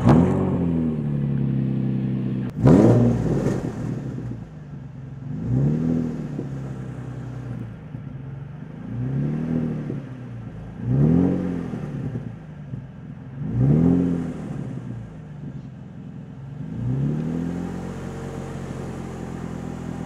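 Nissan 350Z's 3.5-litre V6 catching as it starts, then idling with six short throttle blips that each rise and fall in pitch. The exhaust is leaking underneath at a badly bent Y-pipe ahead of a Tomei titanium exhaust, and it sounds cooked.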